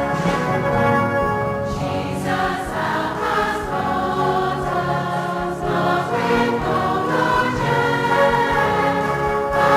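A choir singing a hymn to brass band accompaniment.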